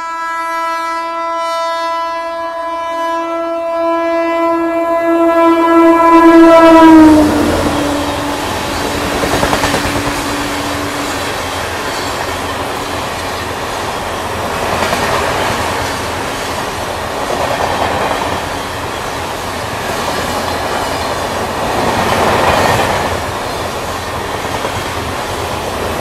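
Indian Railways express train running through the station at speed. The locomotive sounds one long horn blast on the approach, and its pitch drops as the engine passes about seven seconds in. After that the coaches rush past with a steady rumble and swells of wheel clatter.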